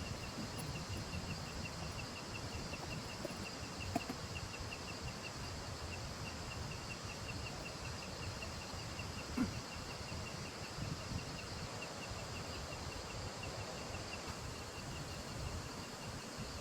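An insect chirping in a fast, even rhythm of about four to five chirps a second, over a steady background hiss, with two soft knocks, one about four seconds in and one near the middle.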